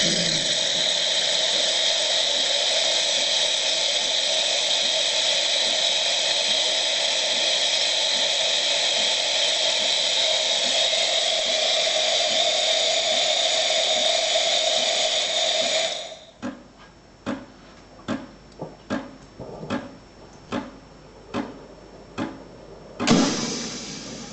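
Ascaso Dream espresso machine hissing steadily with a whistling tone. The hiss stops about sixteen seconds in, and the machine then clicks irregularly, a little over once a second, ending in a louder knock and a short hiss: the clicking noise that is the fault being shown.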